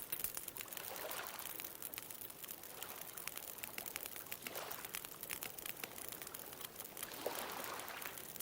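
A wood bonfire crackling with frequent sharp pops, over small ocean waves washing in about every three seconds.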